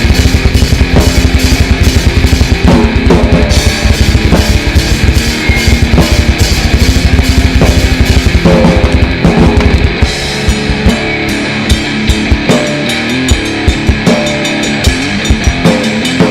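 A grindnoise band playing live: distorted guitar over a drum kit. The drumming is fast and dense, then thins to sparser hits about ten seconds in.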